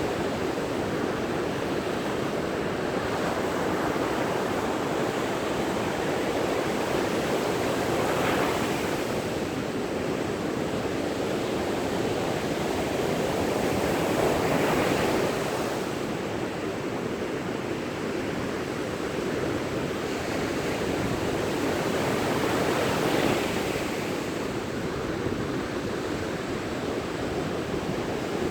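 Sea surf on a beach: a steady wash of waves, swelling each time a wave breaks, about every seven or eight seconds.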